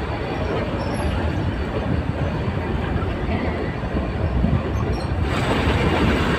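Nilgiri Mountain Railway metre-gauge train running, a steady dense rumble of wheels on rail. The sound brightens abruptly about five seconds in.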